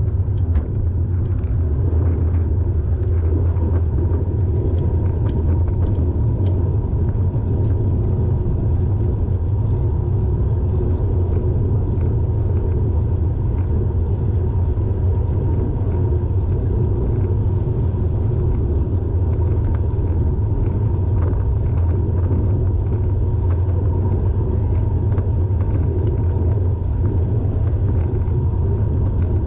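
Steady low rumble of a car heard from inside the cabin, with no horn sounding.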